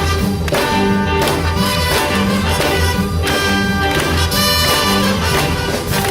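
A jazz big band playing live, with brass over a rhythm section in a swinging, Latin-tinged groove and a steady bass beat about twice a second.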